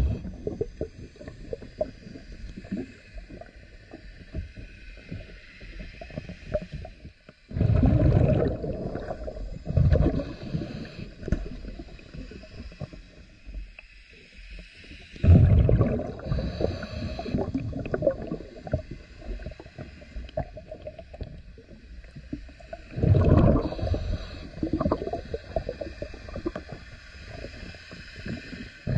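Scuba diver breathing through a regulator underwater: three loud gurgling bursts of exhaled bubbles about eight seconds apart, with quieter bubbling and crackle between them.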